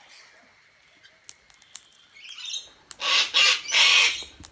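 Birds squabbling at a feeding spot: three loud, harsh bursts about three seconds in, as one bird scares a smaller one off the food.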